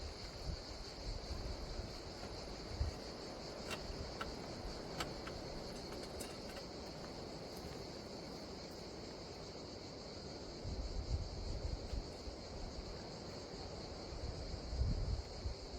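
A steady, high-pitched chorus of insects chirring in a summer forest, with wind buffeting the microphone in gusts about two-thirds of the way in and again near the end.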